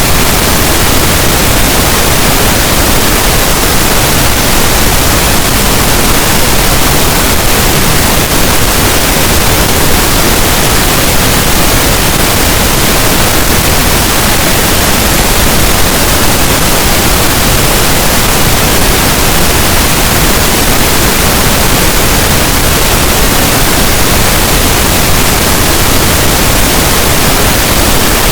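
Steady pink noise: an even, unchanging hiss spread across all pitches, played as a masking sound for sleep.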